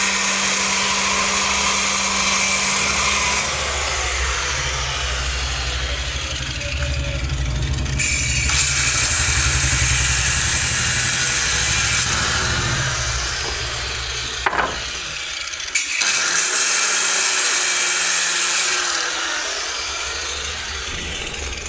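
Woodworking power machine running and cutting wood: a steady motor hum under a loud grinding noise, changing abruptly every few seconds, with one sharp knock past the middle.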